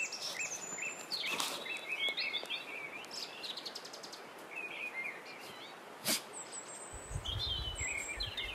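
Birds chirping in short repeated phrases with quick up-and-down pitch glides over a steady hiss. A single sharp click comes about six seconds in, and a low rumble sets in near the end.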